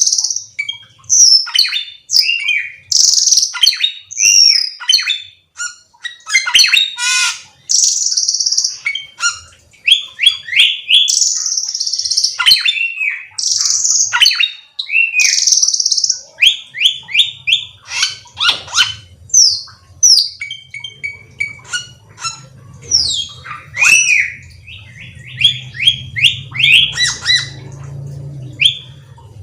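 A cucak keling songbird singing a long, varied song of quick chirps, rising and falling whistles and harsh squawks. There is a low steady hum underneath in the second half.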